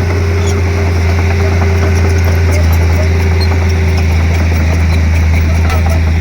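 Komatsu D31P bulldozer's diesel engine running steadily with a deep hum, with scattered light clicks and clanks over it.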